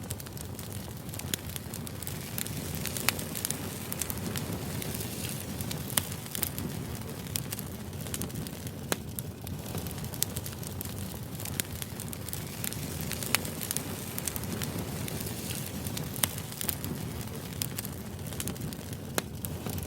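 Firewood burning in a fire-pit brazier: steady crackling with frequent sharp pops.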